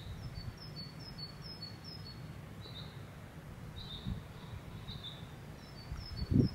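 Small birds chirping: short high calls repeat every second or so, and a quick run of high notes comes twice, early on and again near the end. A low rumble runs underneath, and there is a brief thump just before the end.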